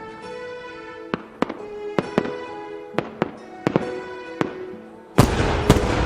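Fireworks going off over music with held tones: a string of single sharp bangs, then about five seconds in a much louder, dense crackling barrage.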